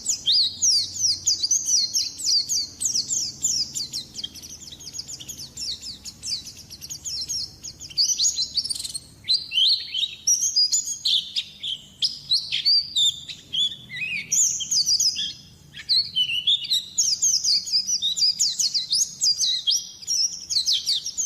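White-eye (pleci) singing in long runs of rapid, high, mostly falling notes, with brief breaks between phrases.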